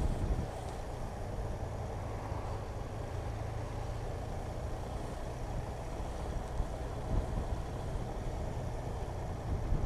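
Motorcycle under way, its engine making a steady low drone mixed with road noise.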